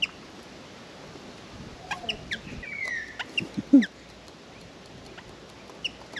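Birds calling: scattered short chirps and a falling whistle, with one louder, lower falling call a little under four seconds in.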